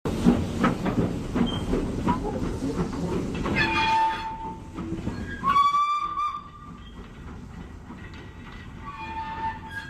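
Narrow-gauge steam locomotive: clatter and hiss for the first few seconds, then three whistle sounds, the middle one the loudest.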